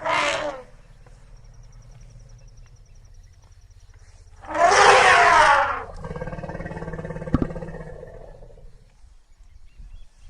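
A large wild animal roaring: a short call at the start, then a longer, louder one about four and a half seconds in that trails off into a quieter rumbling call.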